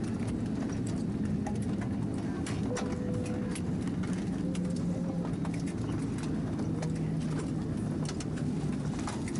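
Steady low hum of an Airbus A319 cabin at its arrival stand, with many brief sharp clicks and knocks scattered through it.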